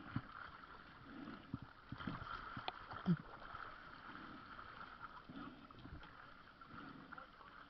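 Water lapping and sloshing, with a couple of light knocks about three seconds in.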